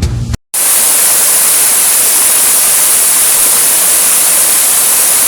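Water rushing down a waterfall: a steady, loud, hissy rush that cuts in suddenly about half a second in.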